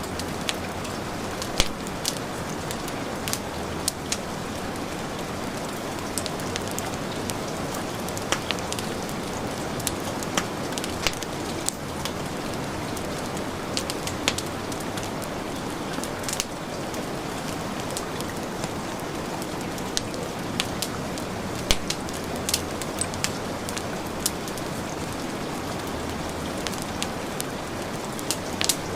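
Steady heavy rain, with a wood fire crackling: sharp pops come irregularly, about one every second or two.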